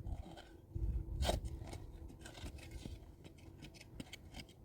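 A series of short scrapes and clicks, with a louder thump and rustle about a second in.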